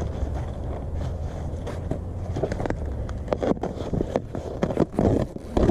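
Packaging around a new kayak being cut and pulled open: irregular crackling and snapping of plastic wrap and cardboard, thickest in the second half, over a steady low rumble.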